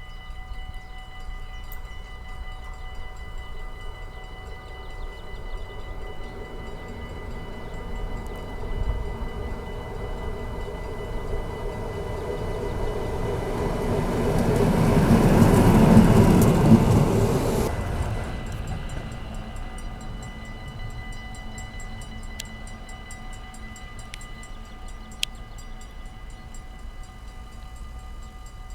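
A convoy of VolkerRail class 203 diesel locomotives passing: engine and rail noise builds over about fifteen seconds, is loudest a little past halfway, drops away quickly soon after and fades out. A single sharp tick comes near the end.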